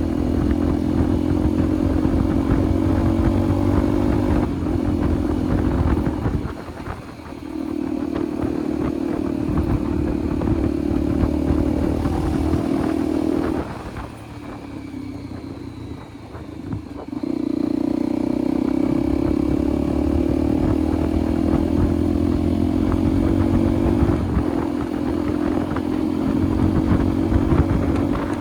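Motorcycle engine under way, pulling steadily with its pitch slowly climbing. The throttle is eased off briefly a few seconds in and again for a few seconds around the middle, before it picks up and pulls again. Wind and road rumble run underneath.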